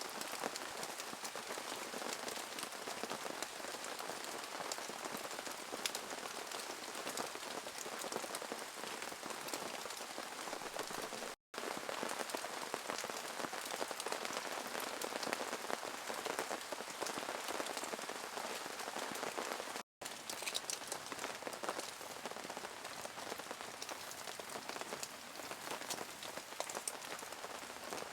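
Steady rain falling, a dense hiss of many small drop ticks on a surface, cut off twice for an instant.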